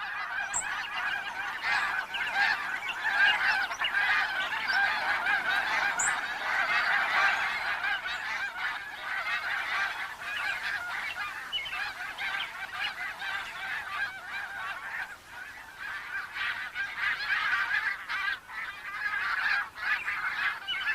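A large flock of snow geese calling, with many overlapping honks merging into a dense, continuous din. It eases slightly about two-thirds of the way through.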